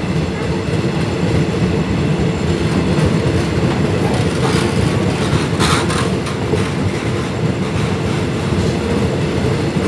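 Eastern & Oriental Express passenger coaches rolling slowly past, a steady loud rumble of steel wheels on the rails, with a brief sharper noise about five and a half seconds in.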